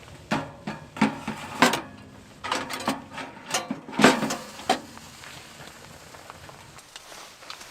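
Camp gear being handled: a quick series of knocks and clinks, some with a short metallic ring, for about the first five seconds, then only a steady low background.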